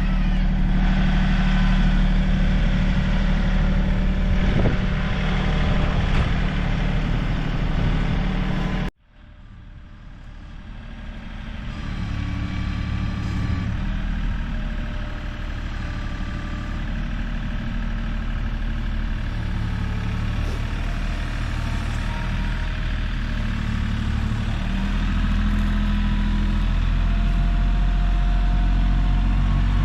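Kioti CK3510 compact tractor's three-cylinder diesel engine running steadily. About nine seconds in, the sound cuts out abruptly, then comes back and builds up over a few seconds to a steady run.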